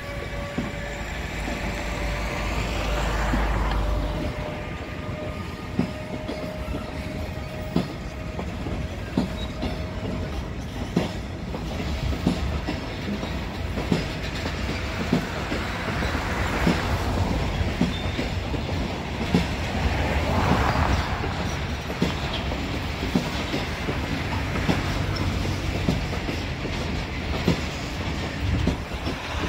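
Freight train hauled by a Siemens Vectron electric locomotive rolling past, its wagons' wheels clicking steadily over the rail joints. A whine of several tones from the passing locomotive fades away over the first ten seconds, and a few swells of hiss rise and fall as the wagons go by.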